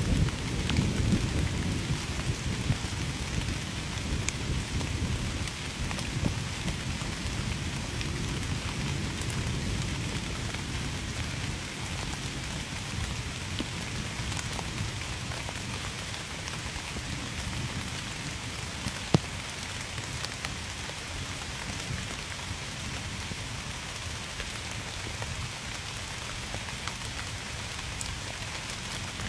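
Heavy rain falling steadily, with a low rumble of distant thunder that fades over the first several seconds. A single sharp click stands out about two thirds of the way through.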